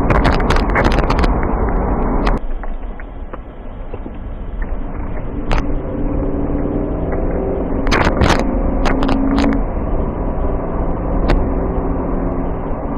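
Vehicle engine running with a steady, slowly shifting hum, broken by scattered sharp clicks; a dense clatter of clicks fills the first two seconds and then stops.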